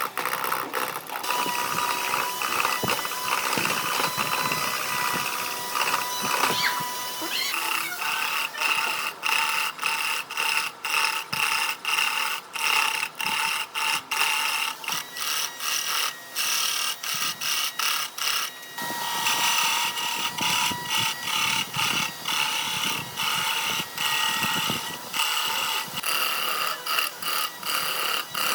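A motor-driven tool cutting wood in many short, rapid passes, with a steady whine under a rough, rapidly pulsing cutting noise.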